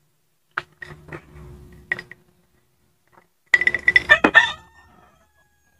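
Close-miked eating sounds: scattered wet mouth clicks while chewing soft bread, then a louder, denser run of clicks for about a second, starting about three and a half seconds in.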